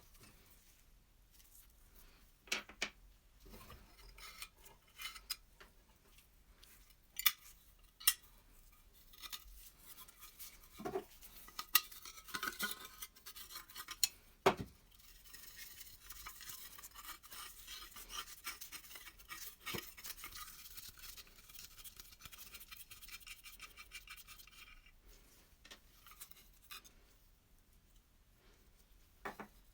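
Hand work on the metal parts of an old rusty oil lamp: scattered metallic clinks and knocks, with a stretch of dry scratching or brushing in the middle lasting about twelve seconds.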